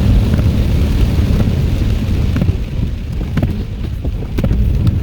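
Steady rain over a heavy low rumble, with scattered sharp drip-like ticks in the second half.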